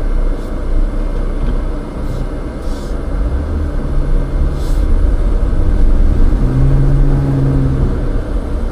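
Off-road vehicle's engine running with a low rumble as it drives the trail. The engine gets louder about halfway through and holds a steady drone near the end.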